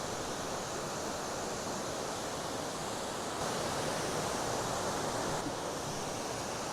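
Waterfall rushing steadily as a constant, even roar of falling water, a little louder for a couple of seconds in the middle.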